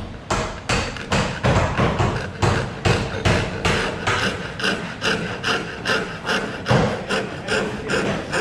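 Hand tool working wood in rapid, even strokes, about three a second, each stroke a short scrape or knock.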